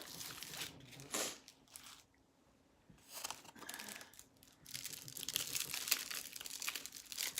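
Small plastic bags of diamond painting drills crinkling as they are handled and sorted, in two stretches with a short pause about two seconds in.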